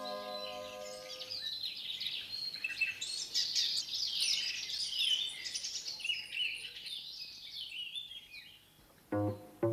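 Birds chirping and twittering in many short, high chirps after a held music chord fades out in the first second or so. Plucked bass notes start near the end.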